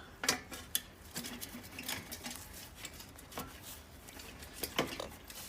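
Scattered light metallic clinks and knocks, about half a dozen spread over several seconds, as a motorcycle exhaust head pipe section and its band clamp are handled and fitted together.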